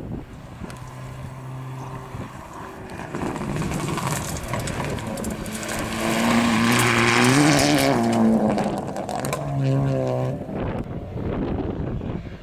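Rally car engine at high revs on a gravel stage, approaching, passing loudest about seven seconds in with a hiss of tyres and gravel, its pitch dropping as it goes by, then pulling away and fading near the end.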